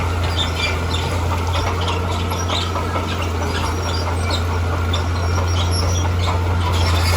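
Heavy earthmoving machine's diesel engine running with a steady low drone, with scattered crackling and clicking over it throughout.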